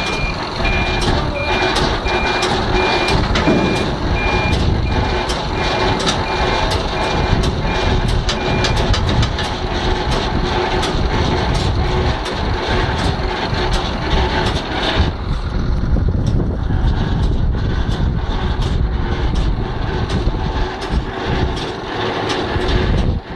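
Scania truck's reversing alarm beeping steadily over its running diesel engine as it backs up; the beeps stop about nine seconds in, and the engine runs on.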